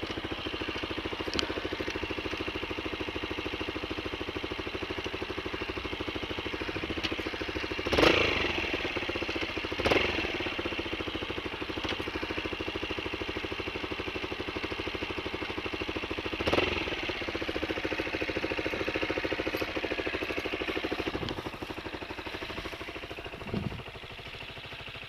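Honda XLR125 single-cylinder four-stroke dirt bike engine idling steadily, with a few sharp clunks. It gets quieter about twenty-one seconds in.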